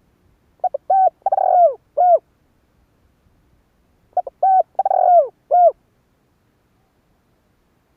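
Spotted dove cooing: two phrases about three seconds apart, each a few short coos followed by a longer one that falls in pitch at the end.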